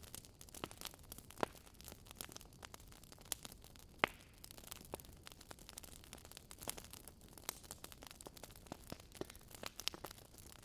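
Wood campfire crackling with many small irregular pops and snaps. Two sharper pops stand out, about a second and a half in and about four seconds in.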